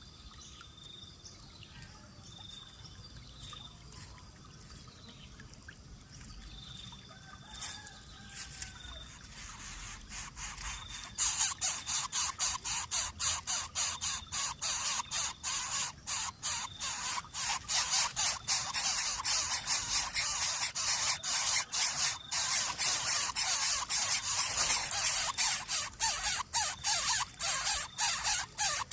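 Newly hatched young predators giving loud, rapid, hissing calls, many a second, starting about eleven seconds in. Before that there are only faint short chirps.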